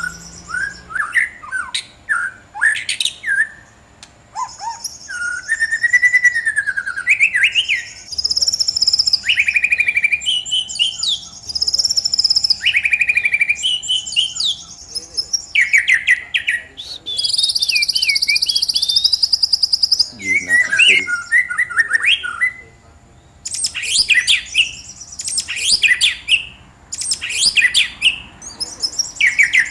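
A songbird singing a long, varied song of whistles, trills and quick chattering phrases, broken by a few short pauses.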